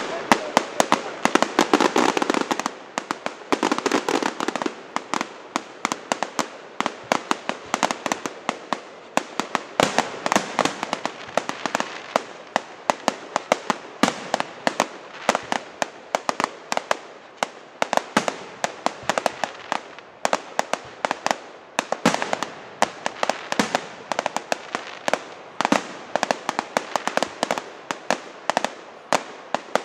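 Firework display: a continuous run of sharp bangs and crackles, several a second, without a break.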